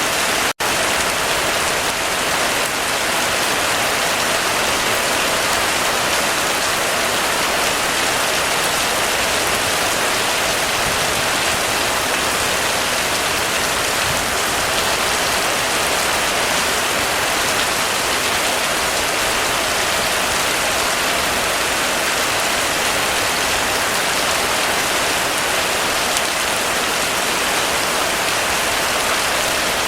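Heavy, steady rain falling on a surface: an even, dense hiss with no thunder. It cuts out for an instant about half a second in.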